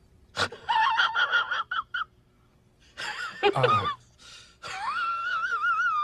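Zach Galifianakis's high-pitched wheezing laugh, the meme sound effect: a string of short wheezy giggles, a gasping intake of breath, then a long squealing wheeze that wavers up and down.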